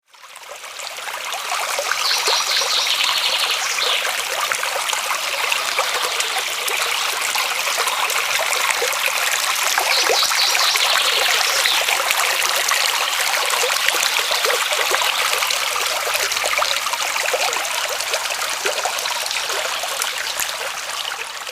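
Small forest brook trickling and babbling steadily, fading in over the first couple of seconds.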